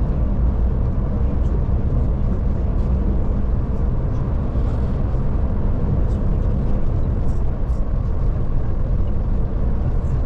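Scania Touring coach driving at a steady pace, heard from inside the cabin: an even engine drone and road rumble.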